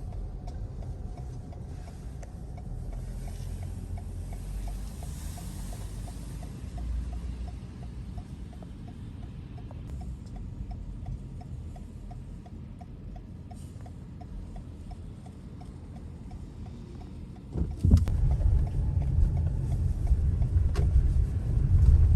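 Inside a car in motion: a low engine and road rumble with a faint, regular ticking about twice a second. About seventeen seconds in, the low rumble becomes much louder.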